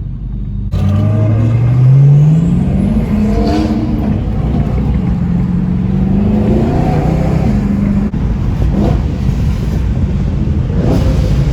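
A car engine accelerating hard: its pitch climbs steeply for about two seconds, then keeps rising and falling as it revs on.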